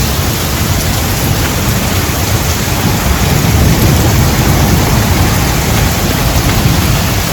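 Heavy rain pouring steadily, with a deep low rumble underneath that grows louder through the middle.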